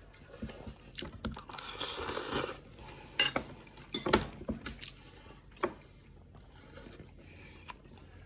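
Cutlery and dishes clinking and knocking during a meal: scattered sharp clicks, loudest about three and four seconds in, with a short scraping rustle about two seconds in.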